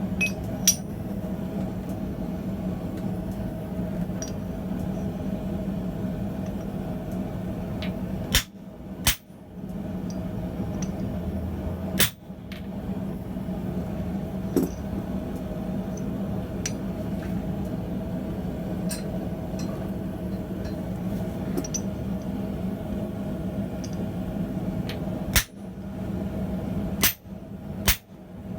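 Steady humming of a gas forge running, with a few isolated sharp metallic strikes about a second in, twice around eight to nine seconds in, once near twelve seconds and twice near the end.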